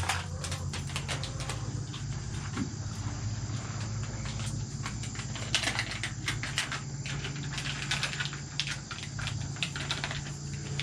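A cat crunching dry food: irregular small crunching clicks over a steady low hum.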